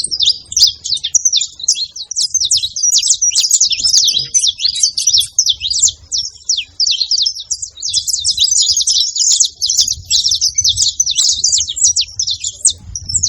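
Saffron finch singing: a long, unbroken run of rapid high chirps and trills.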